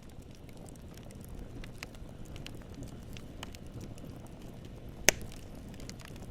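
Wood campfire burning, a low steady rumble of flames with scattered small crackles and one loud pop about five seconds in.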